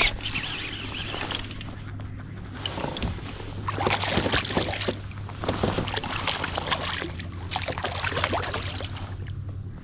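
Water splashing and line being reeled in as a hooked smallmouth bass is fought beside a kayak, with irregular splashes and clicks bunched in the middle, over a steady low hum.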